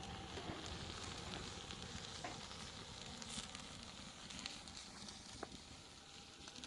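Faint steady hiss with small crackles and clicks scattered through it.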